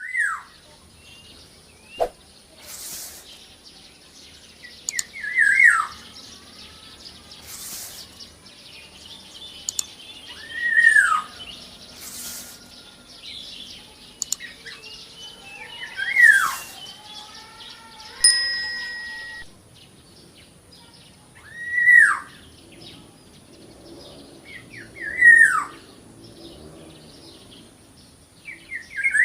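Black-naped oriole (kepodang) calling: a loud single slurred note that rises briefly and then falls, repeated about every five seconds. Fainter high chirps of other small birds go on behind it.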